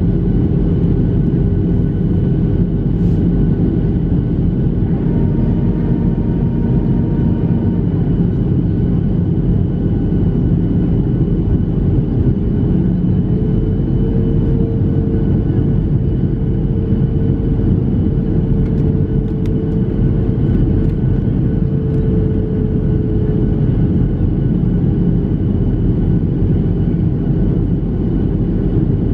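Boeing 737-700 cabin noise: a steady, loud rush of airflow with the drone of the CFM56 jet engines. The engine hum rises slightly in pitch about halfway through, then settles back.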